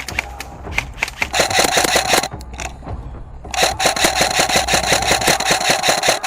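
Airsoft electric rifle (AEG) firing on full auto: after a few scattered clicks, a burst of about a second, then a longer burst of nearly three seconds of rapid, evenly spaced shots with the gearbox whirring.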